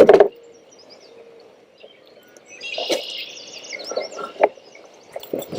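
Small birds chirping and singing in short, quick phrases, starting a couple of seconds in, with a few sharp clicks or knocks, the loudest about four and a half seconds in.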